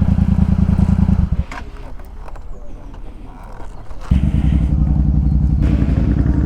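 Yamaha MT-07's parallel-twin motorcycle engine running steadily at cruising revs. It drops away abruptly about a second in, leaving a few seconds of quieter low rumble, then comes back just as suddenly at slightly higher revs.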